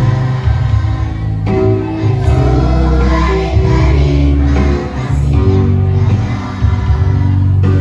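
Children's choir singing sustained notes over a loud, bass-heavy musical accompaniment.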